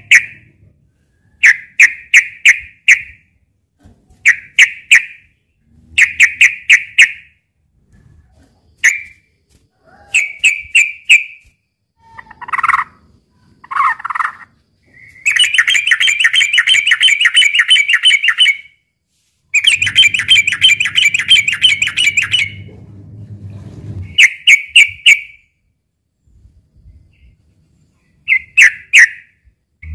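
Yellow-vented bulbul (trucukan) calling: short, chattering bursts every second or two, with two long, rapid trills in the middle of a few seconds each. A low hum sits under the second trill.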